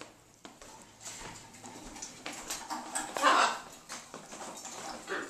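A parrot gives a brief, rough call about three seconds in, among scattered small knocks and footsteps.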